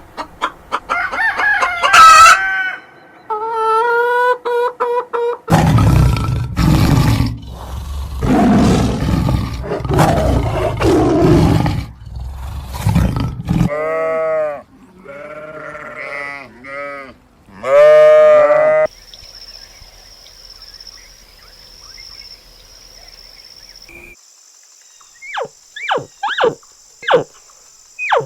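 A succession of different animal calls, one after another: pitched calls at first, then a long, loud, rough stretch, then a run of repeated arched calls, a faint steady high tone, and a few short falling chirps near the end.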